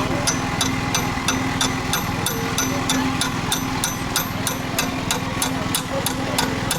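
Rapid, even metallic clicks, about four a second, over a steady engine hum.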